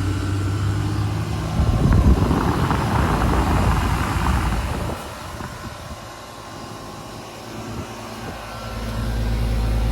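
Running outdoor heat pump condensing units: a steady compressor hum with the rush of a condenser fan's air. The rush swells about two seconds in and drops away about five seconds in, and a deeper steady hum from another unit rises near the end.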